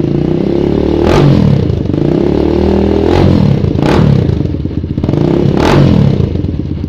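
Single-cylinder 150 cc trail-bike engine breathing through an FMF carbon aftermarket exhaust, revved in four throttle blips, each rising to a sharp loud peak and falling back toward idle.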